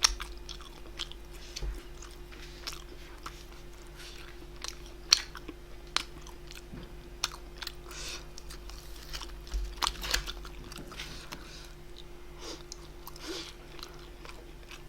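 Close-miked chewing and biting of food by a person eating, with irregular wet clicks and crunches; the loudest bites come about 5 and 10 seconds in. A faint steady hum runs underneath.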